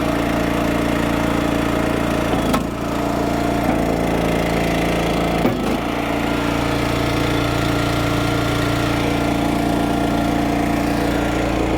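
Eastonmade 12-22 log splitter's gas engine running steadily, its note briefly dipping with a knock twice, about two and a half and five and a half seconds in. The splitter is running again after a broken O-ring at the cylinder's return fitting was replaced.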